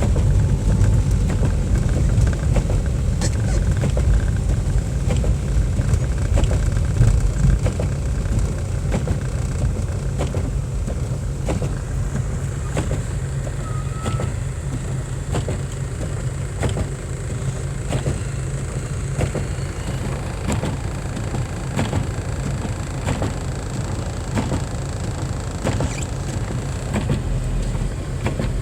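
Car on the move heard from inside the cabin: a steady low rumble of engine and tyres on the road, with faint scattered clicks.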